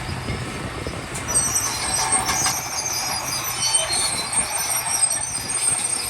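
Crawler bulldozer at work: its diesel engine runs steadily under high, uneven metallic squeals and clanks from the steel tracks.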